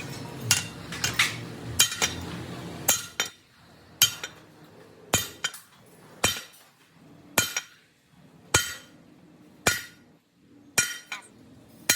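Hammer blows on metal, each a sharp ringing clink, coming evenly about once a second. A low hum sits under the first few blows and stops about three seconds in.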